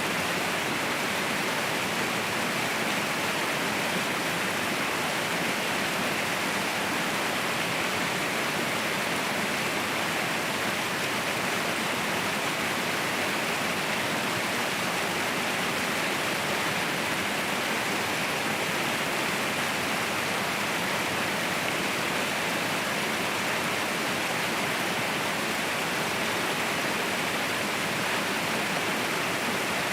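Mountain waterfall: a steady, unbroken rush of falling water that does not change.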